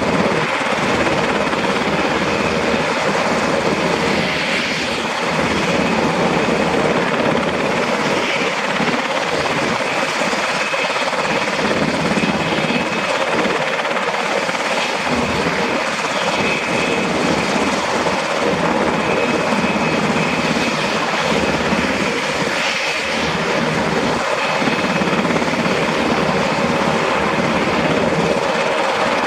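UH-60 Black Hawk helicopter running, its twin turboshaft engines and rotor giving a steady, loud noise with a high whine over it.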